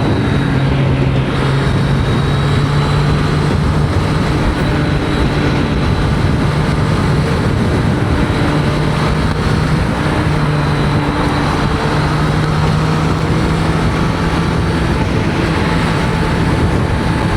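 Heavy wind rush over a motorcycle helmet, picked up by a mic inside the helmet, with the steady drone of a Triumph Street Triple 765 RS inline three-cylinder engine at highway speed, about 60 mph in fourth gear.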